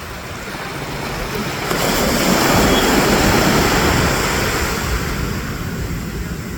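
Sea waves washing in, building to a loud surge about two seconds in and easing off again, with wind rumbling on the microphone.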